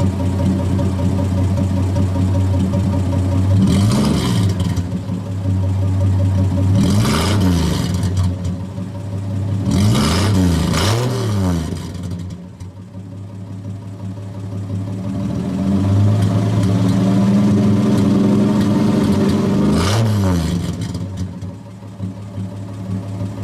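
Straight-piped Chrysler slant-six inline six engine idling with no muffler, the exhaust dumping out ahead of the rear axle. The throttle is blipped five times, each a quick rise and fall in revs, two of them close together about ten seconds in.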